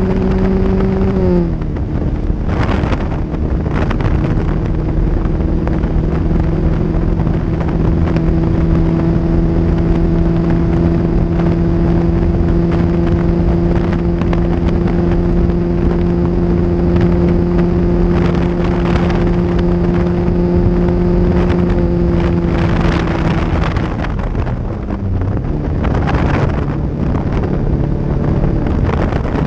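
1976 Lancia Scorpion's 1.8-litre twin-cam four, fitted with a hot exhaust cam, pulling at steady high revs on track. The engine note drops slightly about a second in, then dips and wavers for a moment near the end before settling a little lower. Wind buffets through the open roof.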